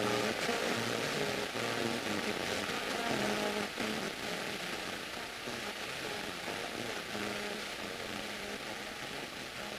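Small propeller airplane's piston engine running over a steady rush of airflow, its tones shifting and the overall sound slowly falling off in the second half, consistent with power being reduced on final approach.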